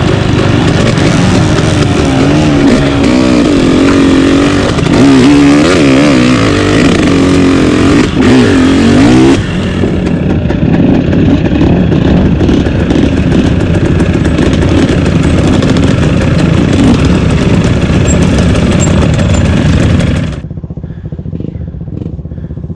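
Off-road trail motorcycle engine running under way, its pitch rising and falling with the throttle for the first several seconds, then holding steadier. About 20 seconds in it drops sharply to a much quieter, low running sound.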